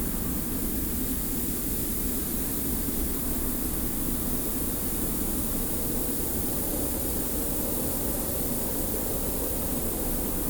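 Steady desert wind ambience: a constant low rushing wind with a fine hiss of blowing sand over it, unchanging throughout.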